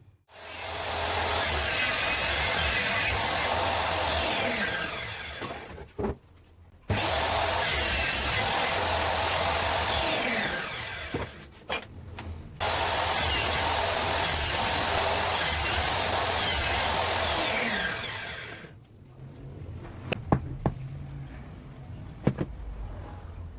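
A power tool running in three runs of several seconds each, with short stops between, working on material during the build. A few light clicks and knocks follow near the end.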